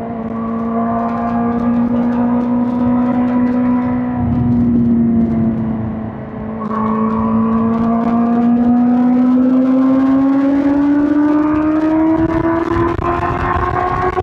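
2005 Suzuki GSX-R1000 K5's inline-four engine running under way. Its note holds fairly level, sags slightly, then climbs steadily through the second half as the bike pulls, and drops sharply right at the end.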